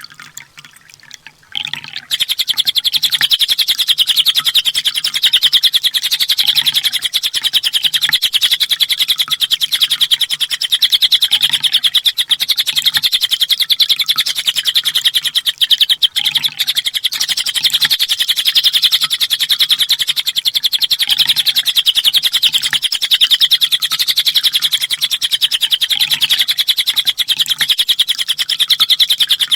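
Sunbird song: a continuous, very fast, high-pitched chattering trill that comes in loudly about two seconds in.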